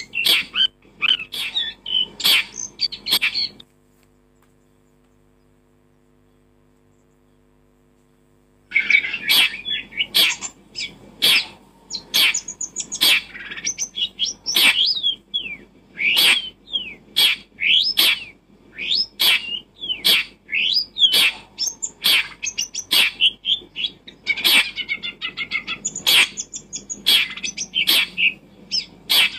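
A bird chirping: rapid short chirps and calls that stop about four seconds in and start again about nine seconds in.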